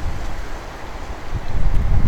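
Strong gusty wind buffeting the microphone, easing off in the first second and picking up again about one and a half seconds in.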